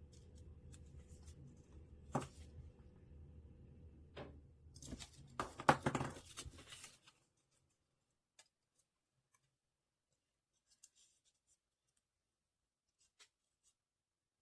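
Cut paper pieces handled and rustled, with scattered crackles and a louder burst of rustling about five seconds in; after about seven seconds only a few faint ticks.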